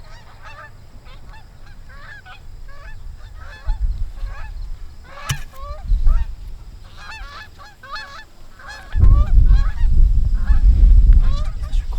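A flock of geese honking repeatedly as it comes in, many overlapping calls. One sharp click about five seconds in, and a loud low rumble over the last three seconds.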